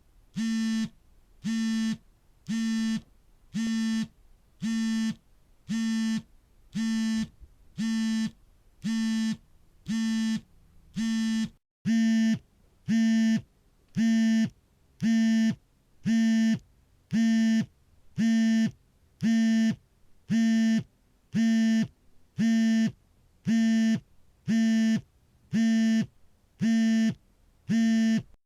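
Smartphone vibrating for an incoming call: a pitched buzz, each about half a second long, repeating about once a second. The buzzes get louder about twelve seconds in.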